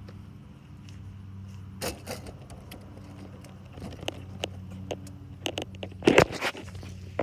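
Plastic Lego bricks clicking and clattering as they are handled and sorted, with a short rattle about two seconds in and a louder burst of clatter near the end. A steady low hum runs underneath.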